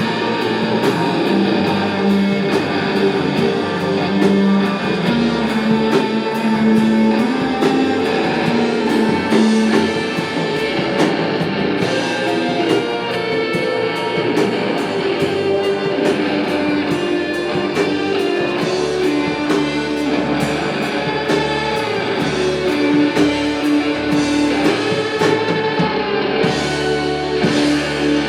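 A rock band playing a song live: strummed electric guitars over bass and a steady drum beat.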